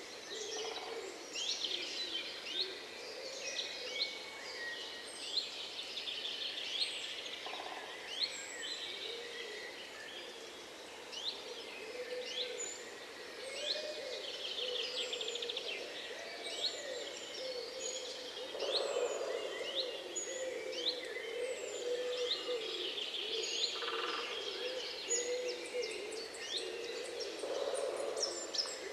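A chorus of many songbirds chirping and trilling at once, with a lower, wavering hooting call running underneath.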